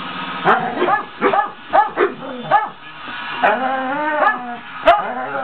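A dog giving a run of short, high yips and whining barks, about one every half second. A longer, drawn-out whine comes about three and a half seconds in, with a sharp click shortly after.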